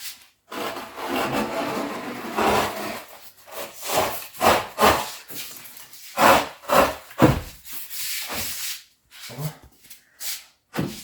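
Rubbing strokes across a freshly worked wooden tabletop to clean off the dust: a continuous scraping rub at first, then a series of separate strokes.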